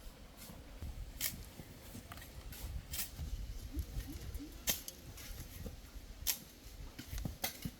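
Scattered sharp clicks and light taps at irregular intervals, over a low rumble.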